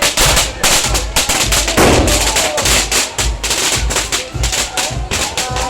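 Firecrackers banging in quick, irregular succession over a steady bass-drum beat.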